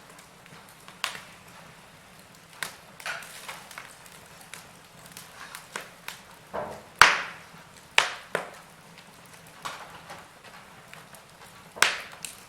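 Wood fire in a fireplace crackling, with irregular sharp pops and snaps over a soft hiss. The loudest pops come about seven and eight seconds in, and again near the end.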